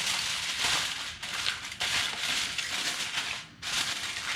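Aluminum foil crinkling as a sheet is handled and pressed down over a steak to rest it, in uneven rustling surges.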